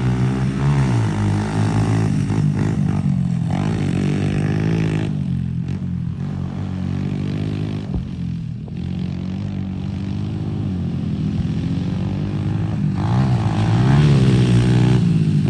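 Two pit bike engines racing, their pitch rising and falling as the riders throttle up and back off through the laps. The sound fades a little midway and grows louder again near the end as the bikes come closer.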